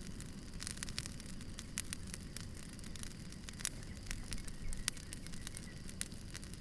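Campfire burning: a steady low rush of flame with irregular sharp crackles and pops from the burning wood.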